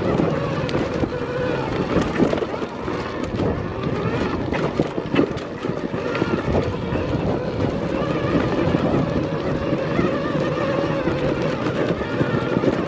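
Arctic Leopard XE Pro electric dirt bike running under load on a trail climb: a wavering motor whine over drivetrain and tyre noise, with occasional knocks.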